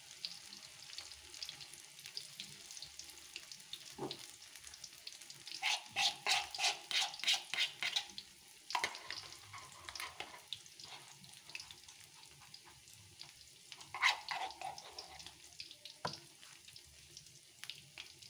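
Corn-fritter batter deep-frying in hot oil in a wok: a steady sizzle with crackling. A run of louder bursts comes about six seconds in, and one more loud burst near fourteen seconds.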